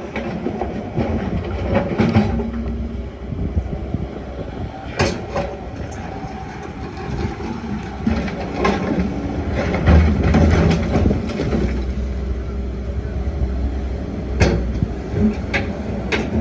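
Excavator's diesel engine running under load with scattered sharp metallic clanks and knocks, from the tracks or the bucket and linkage. The engine gets heavier about ten seconds in.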